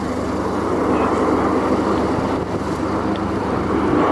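A formation of propeller-driven aerobatic display aircraft flying by with a steady engine drone that slowly grows louder.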